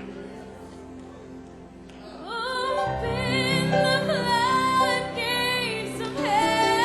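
Church worship music: soft sustained keyboard chords, then about two seconds in a solo voice comes in singing with slides and vibrato as the band and bass swell up underneath.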